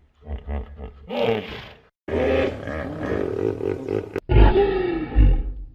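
Lion roaring and growling in short spliced clips: deep pulsing grunts, then longer pitched roars, with abrupt cuts about two and four seconds in.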